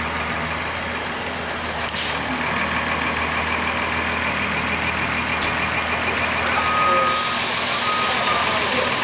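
Cummins ISC diesel engine of a 2002 Blue Bird CS transit bus idling steadily. A short sharp burst of air hiss comes about two seconds in, and a longer air hiss starts about seven seconds in. Two short beeps sound near the end.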